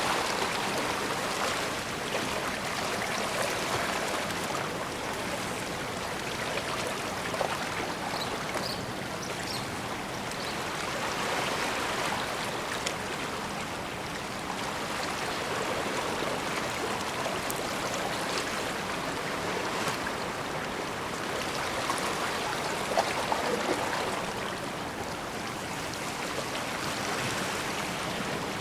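Bay water washing and trickling along the shore: a steady rushing that swells and eases slowly every few seconds.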